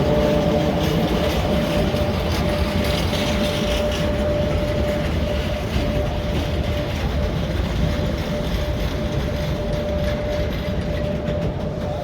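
Train moving through the station as the bike train is being positioned at the platform. Wheel and rail rumble with a steady high electric whine, slowly fading.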